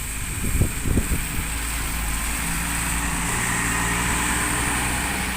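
Stagecoach bus's diesel engine running steadily close by, with the hiss of wind and rain on the microphone.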